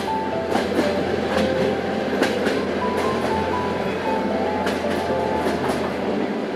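Train running along the track, with irregular sharp clicks, under background music carrying a melody.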